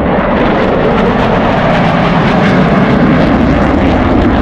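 Loud, steady engine roar of a fixed-wing aircraft in flight.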